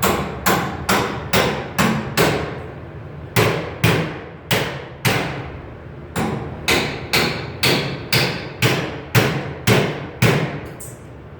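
Hammer striking sheet metal, about twenty blows at roughly two a second with two short pauses, each blow ringing briefly.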